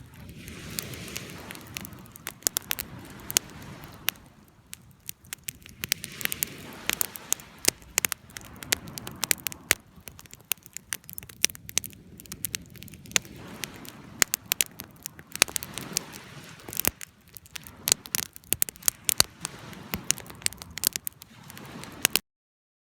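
Campfire of burning wood crackling, with frequent sharp pops and snaps over a soft rushing that swells and fades every few seconds. The sound cuts off suddenly near the end.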